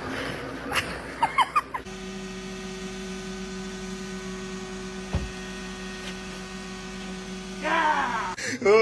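A steady electric hum, with a few short rising squeaks before it begins and a brief rising squeal just before it cuts off near the end.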